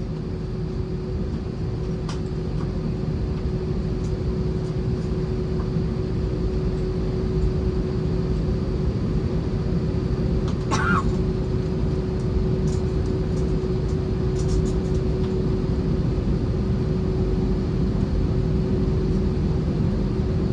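Airbus A320-232 cabin noise on the ground: the steady rumble of the engines and air-conditioning with one constant hum tone, slowly growing louder.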